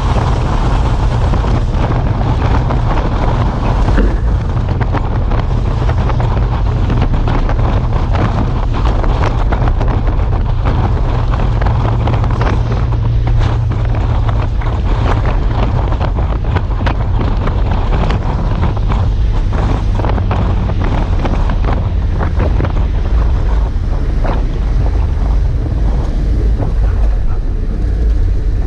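Heavy truck engine running with a steady low rumble, wind buffeting the microphone, and frequent light rattles and clanks.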